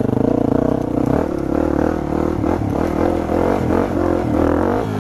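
Dirt bike engine running at low revs, steady at first, then its pitch and level wavering as the throttle is opened and closed in the second half.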